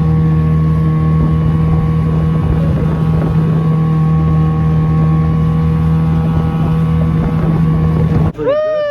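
Boat engine running steadily at a constant speed, with a low drone and wind over the microphone; it cuts off abruptly near the end.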